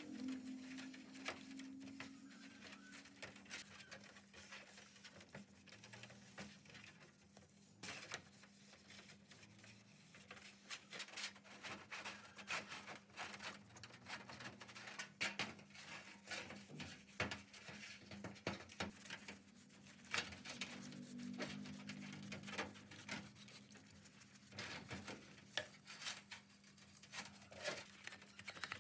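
Faint, irregular light clicks and taps of hand work, over a steady low hum.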